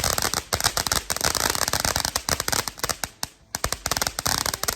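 Consumer fireworks crackling: a rapid, irregular rattle of many small sharp pops. They thin out briefly about three seconds in, then pick up again.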